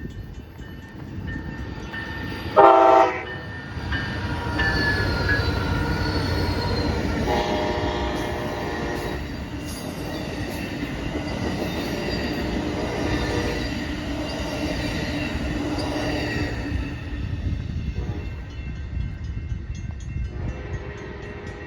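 A train rumbling past, its horn sounding several times: a short, very loud blast about three seconds in, then longer, quieter blasts later on. Brief high wheel squeal a few seconds in.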